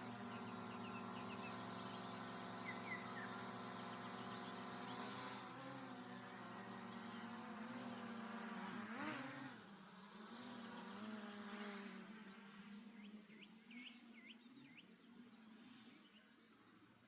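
A flying insect buzzing close by, a steady hum whose pitch wavers about nine seconds in as it passes, then fading away over the last few seconds. A few faint bird chirps sound in the background.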